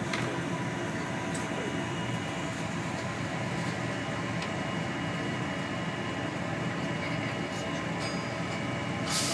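Steady hum and rumble of a passenger train standing at a station platform, heard from inside the carriage, with a few faint clicks and a brief hiss just before the end.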